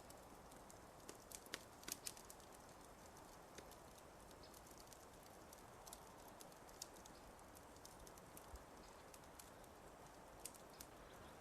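Fireplace fire crackling: irregular small snaps and pops over a faint steady hiss.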